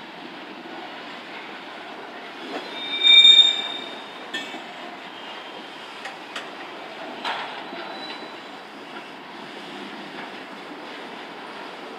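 Train cars rolling past with a steady rumble of wheels on rail. A loud, high-pitched wheel squeal rises briefly about three seconds in, followed by a few sharp clicks.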